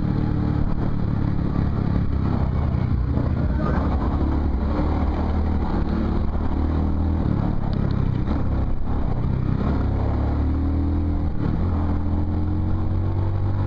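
Motorcycle engine running under way, its pitch shifting with the throttle and rising steadily near the end as the bike accelerates.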